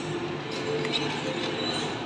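Steady background hubbub of a busy shopping area: indistinct voices and clatter, with no single sound standing out.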